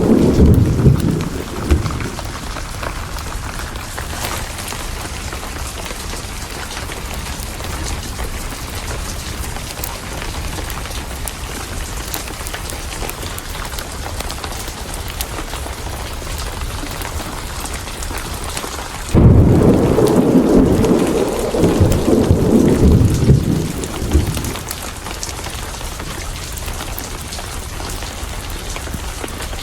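Steady heavy rain with a thunderstorm. A roll of thunder fades out over the first two seconds, and a sudden loud thunderclap breaks about two-thirds of the way in, rumbling for about five seconds before dying back to the rain.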